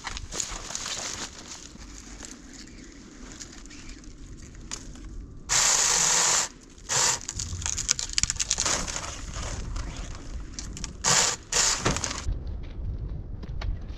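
Wooden branches cracking and splintering, with loud bursts of harsh noise about five and a half seconds in and again around eleven seconds.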